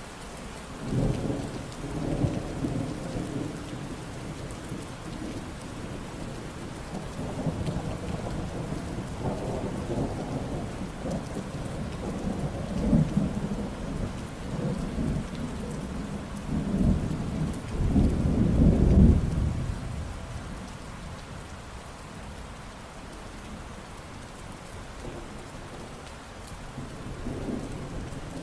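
Steady rain falling, with thunder rumbling low and rolling through the first twenty seconds, loudest about eighteen to nineteen seconds in, and a faint rumble again near the end.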